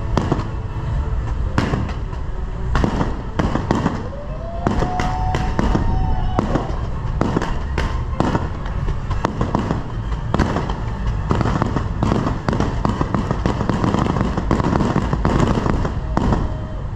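Aerial fireworks display: a rapid run of bangs and crackling bursts throughout. About five seconds in, a whistle rises and then holds for a couple of seconds.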